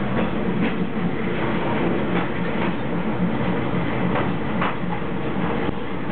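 Diesel railcar rolling slowly, heard from inside its cab: a steady engine drone with the wheels clacking over rail joints in pairs, about every two seconds.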